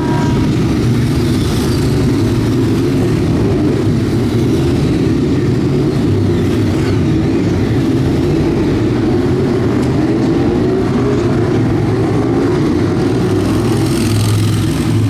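Ducati 848 race bike's L-twin engine running hard on track at a steady, sustained high pitch.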